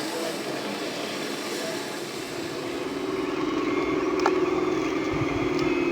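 A small motor running with a steady whine that comes in and grows louder about halfway through, with a single click near the end.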